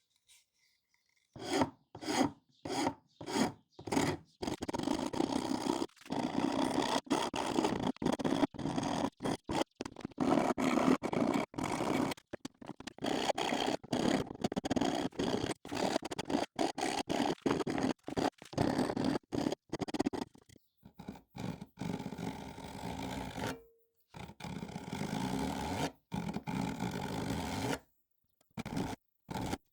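Hand filing: rapid back-and-forth rasping strokes across a workpiece, in long runs broken by brief pauses.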